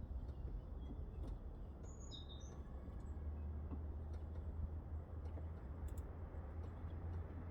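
A few short, faint bird chirps about two seconds in, over a steady low rumble.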